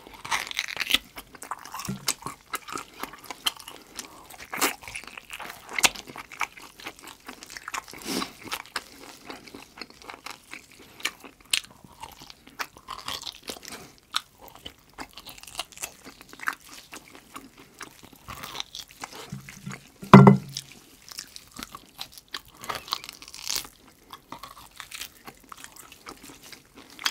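Close-miked chewing and biting of braised pork hock (jokbal) meat pulled off the bone: a steady run of short wet clicks and smacks, with one louder low sound about twenty seconds in.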